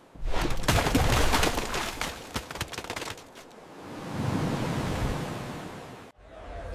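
Dramatic sound effects: a dense run of rapid cracks like gunfire for about three seconds, then a rushing rumble of noise that swells and fades before cutting off suddenly near the end.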